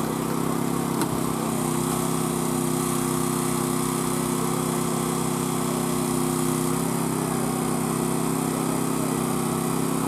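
Small gasoline engine running steadily, the power unit driving the hydraulic rescue tools used to cut the car apart. Its tone shifts between about one and a half and seven seconds in, as if under load from the tool.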